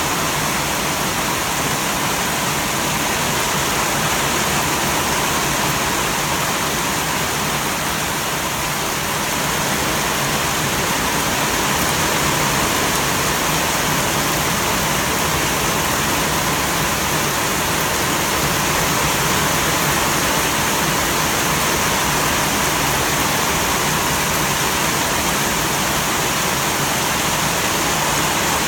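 Heavy rain pouring down on dense trees and plants in a steady, unbroken hiss.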